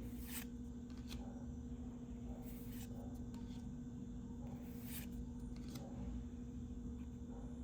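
Yu-Gi-Oh trading cards being slid and handled, giving a few brief paper swishes about two seconds apart over a steady low electrical hum.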